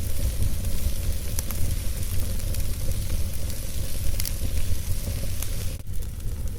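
Wood fire burning in a fireplace: a steady low rumble and hiss of flames with a handful of sharp crackles and pops from the burning logs.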